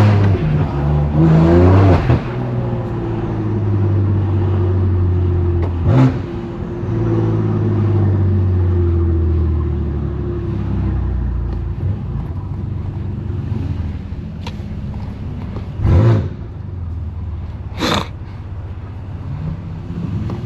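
A 2018 BMW M3 Competition's S55 twin-turbo straight-six, straight-piped, accelerating with its pitch rising through a gear change about two seconds in. It then runs at steadier, slowly falling revs, with a few short sharp cracks later on.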